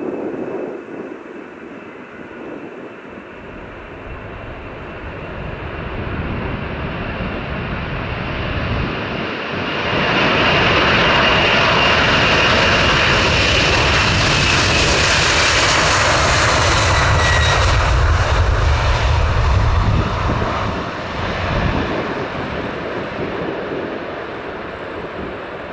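Airliner flying past close by: engine noise builds over several seconds, stays loud for about ten seconds with a high whine that drops in pitch as the plane goes by, then fades away.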